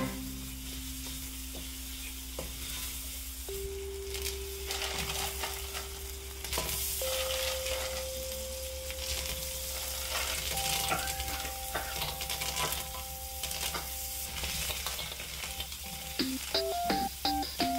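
Chili paste frying and sizzling in an aluminium wok while a metal spatula stirs and scrapes it. La la clams go into the sauce and keep sizzling.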